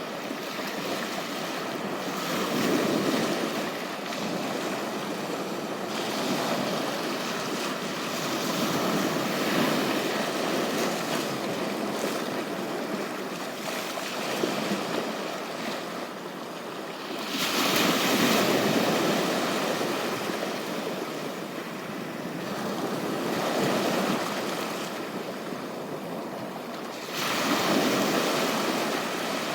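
Ocean surf washing onto a beach: a steady rush of water that swells louder as a wave breaks every few seconds, then eases off.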